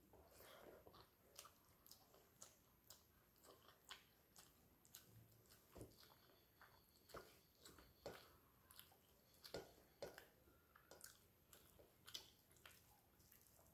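Faint chewing and wet mouth sounds of a person eating rice with fish curry by hand, with many short, irregular soft clicks.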